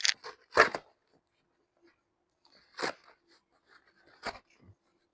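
Handling noise as paper stencils and a cardboard box are moved about: four short crinkles and knocks, two at the very start, one about three seconds in and one just after four.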